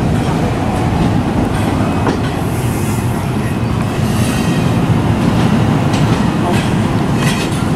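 A train rolling by close at hand: a steady loud rumble of wheels on the rails, with clicks and clatter over rail joints and switches and brief high hissing.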